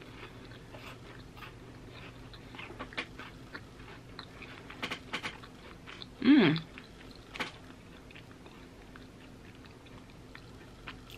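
Chewing a bitten Ritz cracker topped with Brie and honey, with small crisp crunches scattered throughout. About six seconds in comes a short closed-mouth hum of 'mm', falling in pitch.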